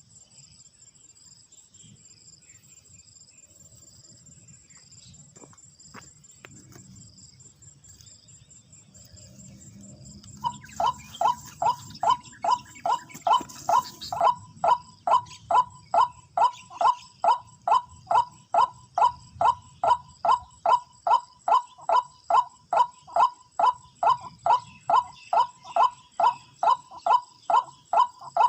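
Crickets chirping steadily; about ten seconds in, a loud run of white-breasted waterhen calls starts, short pitched notes repeated very regularly at about two and a half a second.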